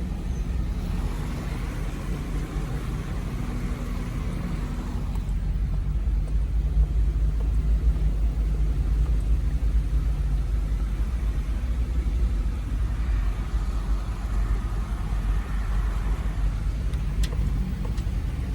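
Hurricane wind and heavy rain, with a steady low rumble and a hiss that swells and fades.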